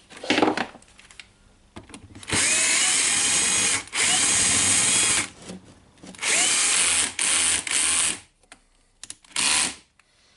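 Power drill-driver running in short bursts to drive screws, its motor pitch rising as each run starts and falling as it stops: two longer runs, then three quick ones and a last short burst near the end.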